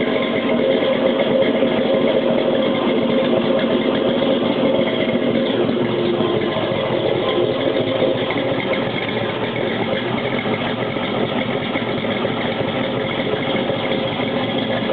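1967 Shelby's V8 engine running at a steady idle.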